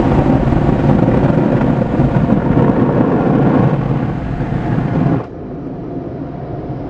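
Automatic car wash dryer blowers blasting air at the car, heard from inside with the window open: a loud, steady roar of rushing air that drops off sharply about five seconds in to a quieter rumble.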